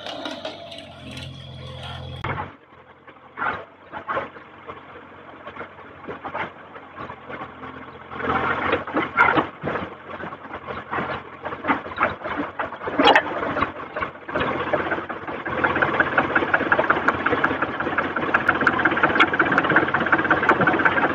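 Backhoe loader's diesel engine working, with a string of irregular knocks and clanks, settling into a steady fast mechanical rattle about fifteen seconds in.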